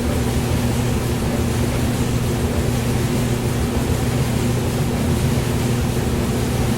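Hair dryer running continuously: a steady rush of blown air over a low, even motor hum, with no change in pitch or level.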